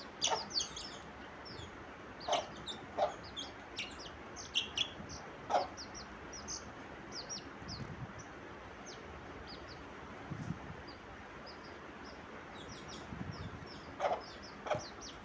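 Chickens clucking and peeping, with many short high chirps scattered throughout and a few lower clucks.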